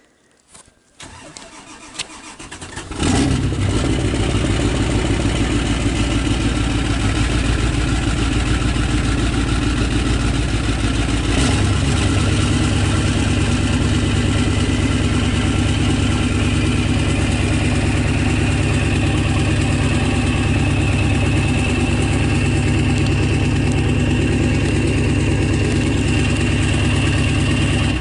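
Diesel engine cold-starting in freezing weather: a few clicks, brief cranking about two seconds in, then it catches around three seconds and settles into a steady, evenly pulsing idle. A faint high whine comes in over the idle in the second half.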